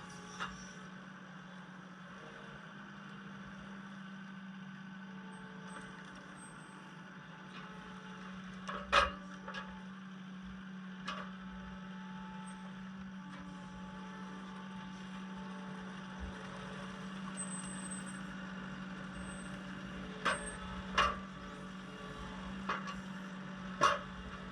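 Kubota SVL75-2 compact track loader's diesel engine running steadily, with a handful of sharp cracks and knocks over it, the loudest about a third of the way in and several close together near the end.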